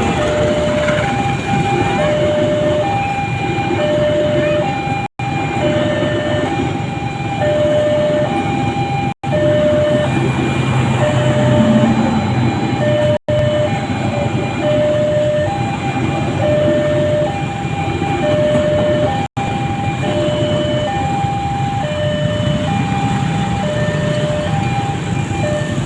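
Level-crossing warning alarm sounding a steady alternating two-tone signal, over the loud rumble of a train passing the crossing. The audio briefly drops out four times.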